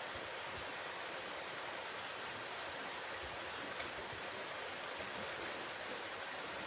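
Valley stream water rushing, a steady even wash of sound, with a thin steady high-pitched tone over it.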